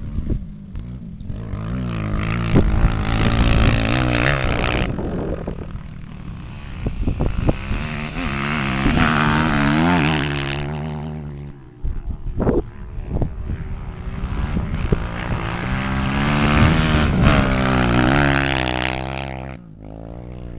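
Engines of 250 cc off-road race machines revving up and down. They are loudest in three stretches: about two to four seconds in, seven to eleven seconds in, and fifteen to nineteen seconds in.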